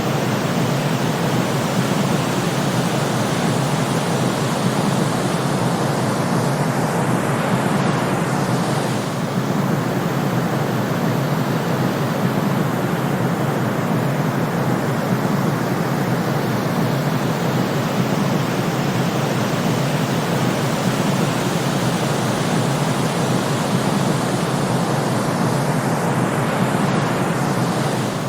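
Steady white noise of a sleep timer, a constant even hiss with most weight in the lower range and a slight dip about nine seconds in.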